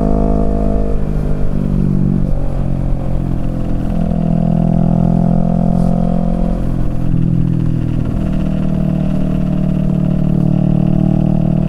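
Kawasaki Z650 parallel-twin engine running through a Yoshimura Alpha exhaust while riding. Its pitch falls about two seconds in, holds steady, and changes again around eight seconds in.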